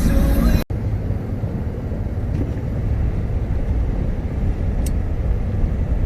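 Background music cuts off abruptly under a second in, giving way to the steady low rumble of road and engine noise inside a moving Ford F-150 pickup's cabin.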